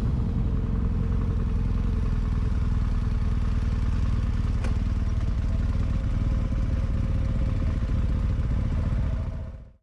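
Motorcycle engine running steadily under way, a low drone, fading out just before the end.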